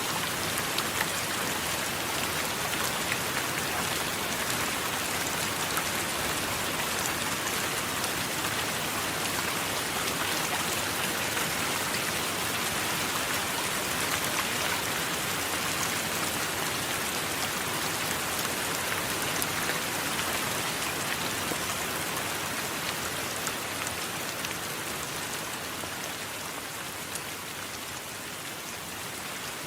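Steady heavy rain: a dense, even hiss with scattered sharp drop ticks, easing slightly near the end.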